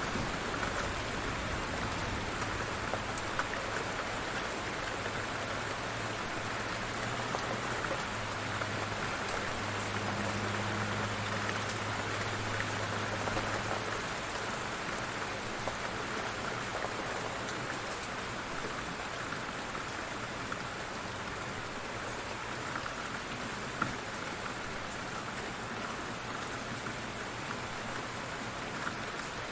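Light rain falling steadily, with many small drops ticking on surfaces. A low hum sits under it and stops about halfway through.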